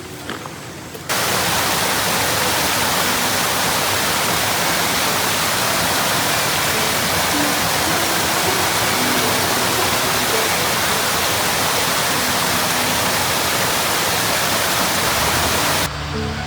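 Waterfall: a steady, even rush of falling water that starts suddenly about a second in and cuts off just before the end.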